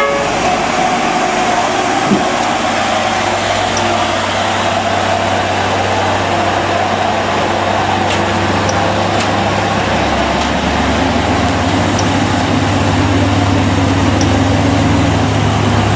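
Hino truck's diesel engine pulling hard up a steep climb, a steady heavy drone that deepens and gets a little louder from about ten seconds in.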